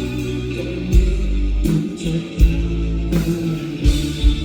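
Live rock band playing an instrumental passage with no singing: guitars and bass over drums, with a kick drum hitting every half second or so.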